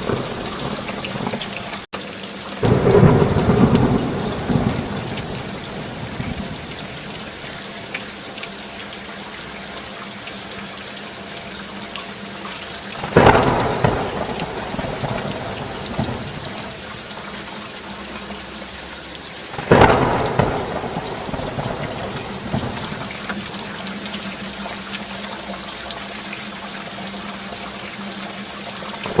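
Steady rain with thunder: a long rumble about three seconds in, then two sharper claps that fade, about halfway through and about two-thirds through. The sound cuts out for an instant just before the first rumble.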